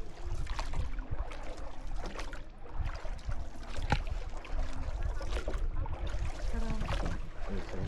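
Small boat out on the water: a steady low rumble with wind on the microphone, scattered knocks and water sounds, one sharp knock about four seconds in, and faint voices in the background.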